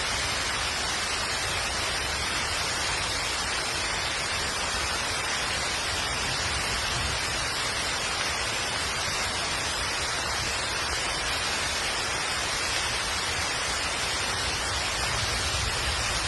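Heavy rain falling steadily, a dense even hiss with a low rumble underneath and no distinct drops or thunder claps standing out.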